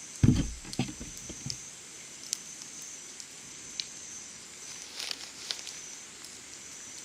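Summer insects calling in a steady high-pitched drone. A dull thump comes just after the start, and sharp clicks and pops from the campfire and the simmering can are scattered throughout.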